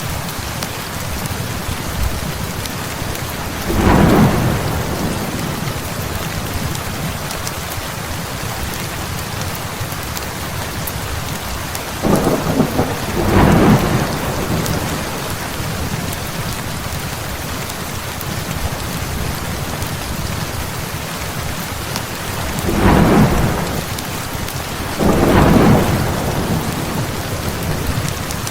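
Heavy rain falling steadily, with thunder rumbling up five times over it: once about four seconds in, twice in quick succession around the middle, and twice more near the end.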